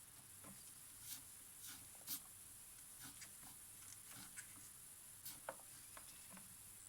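Faint scratches and light ticks of small hand tools working on a Polaroid camera's flex-circuit pads, cleaning off excess solder. The two sharpest ticks come about two seconds in and about five and a half seconds in.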